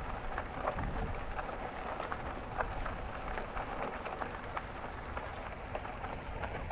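Bicycle tyres crunching over a loose dirt and gravel trail as the bike rolls downhill with the brakes on, giving a steady patter of small ticks. Wind rumbles on the microphone underneath.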